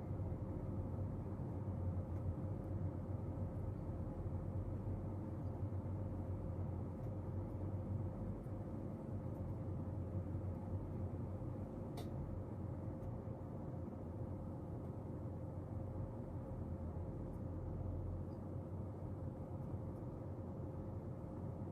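Steady low room hum with a faint steady tone in it, and a single light click about halfway through.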